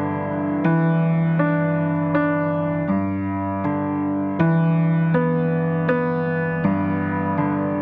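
Slow, steady keyboard music: sustained piano-like notes and chords, a new one struck about every three-quarters of a second.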